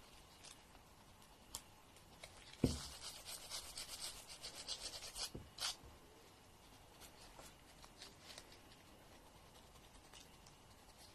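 Fingernails being filed: a soft knock about two and a half seconds in, then about three seconds of quick rasping strokes of the file across the nail, fading to a few faint scratches.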